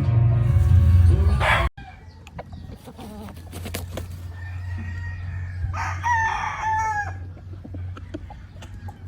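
Music with a heavy bass plays and cuts off abruptly under two seconds in. A gamefowl rooster then crows once, about six seconds in, among scattered clicks and a low steady hum.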